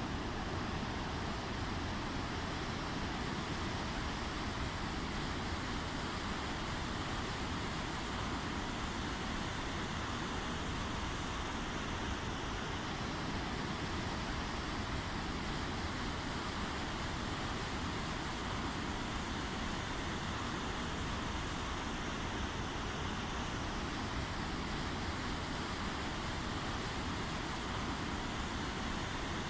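Steady rainfall: an even, unbroken wash of falling rain.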